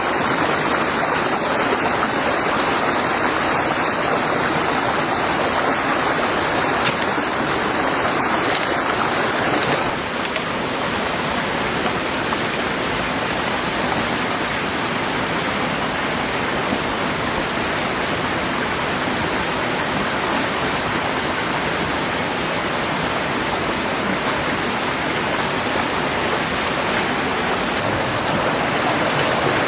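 Heavy rain falling steadily as a dense, even rushing hiss, with a slight change in its character about ten seconds in.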